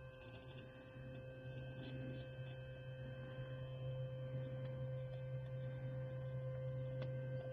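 Steady low electrical-type hum with a fainter steady higher tone over it, growing a little louder after about a second, with a few faint clicks.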